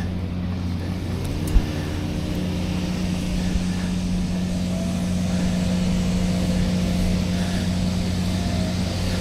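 Riding noise of a bicycle on the move, picked up by a neck-mounted action camera: steady wind and tyre rush with a low hum. About a second in, a set of tones rises in pitch and then holds, and there is one short thump just after.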